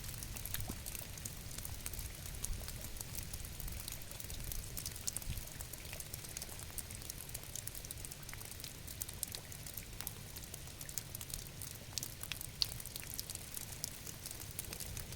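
Rain falling steadily: many small drop ticks over an even hiss, with a low rumble underneath.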